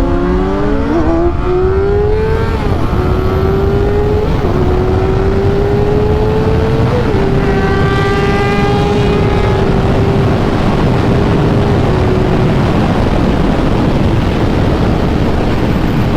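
A 600-class inline-four sport bike engine pulls up in pitch, shifts up, then holds a steady cruise for several seconds. Its note then fades under a heavy, steady rush of wind and road noise.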